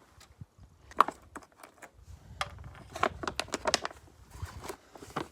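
Irregular clicks and knocks of parts being handled in a car's open engine bay, the sharpest about a second in, with a low rumble underneath from about two seconds in.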